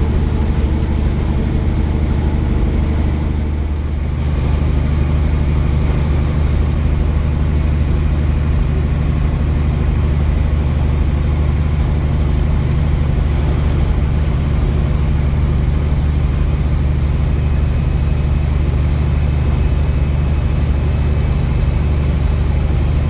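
Kenworth W900 semi truck's diesel engine running steadily under load, heard from the cab, with a brief dip in level and a change in engine tone about four seconds in.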